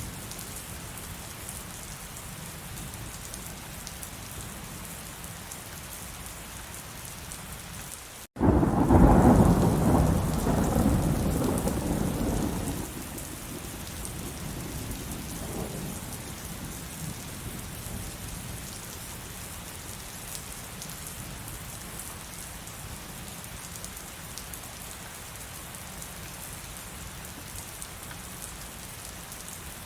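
Steady heavy rain hissing throughout, with a sudden loud clap of thunder about eight seconds in, right after a split-second dropout, that rumbles for about four seconds and dies away a few seconds later.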